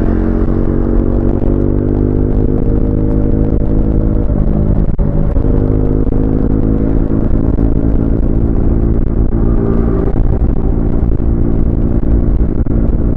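Triumph Speed 400's single-cylinder engine pulling under acceleration, its pitch rising slowly. About four and a half seconds in it breaks off briefly, like a gear change, then pulls steadily again.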